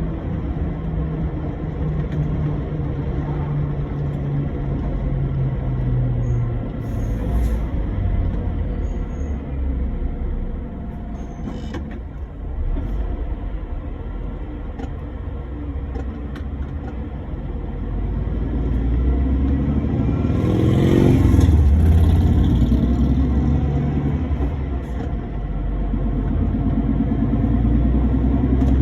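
Truck engine and road noise while driving: a steady low drone whose pitch shifts a few times, swelling to its loudest about two-thirds of the way through before settling again.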